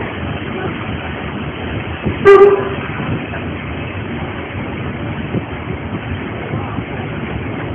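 Narrow-gauge steam train running, with the steady rumble and rattle of the carriages on the track. About two seconds in, the locomotive's whistle gives one short, loud toot.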